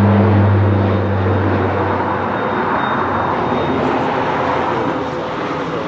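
Jet engines of a Boeing 767-200 running, a steady broad rush of turbofan noise that slowly falls in level; a low hum underneath fades out about two seconds in.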